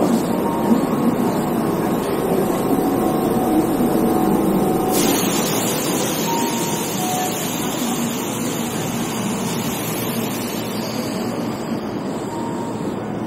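Keihan electric train running, heard from inside the passenger car: a steady rumble of wheels and running gear with faint steady motor tones. About five seconds in, a brighter hiss comes in suddenly and stays.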